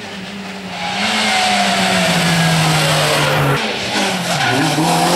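Rally car engine on a special stage, getting loud about a second in, its pitch falling slowly, breaking off briefly about three and a half seconds in, then picking up again.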